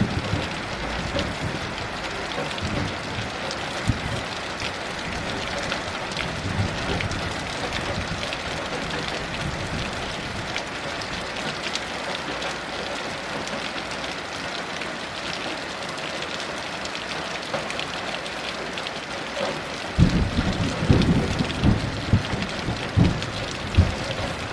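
Heavy rain falling steadily, with low rolling thunder rumbling at the start and again, louder, near the end.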